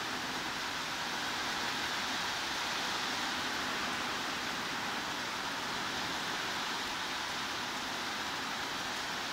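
Heavy rain falling as a steady, even hiss, without separate drops, thunder or other events.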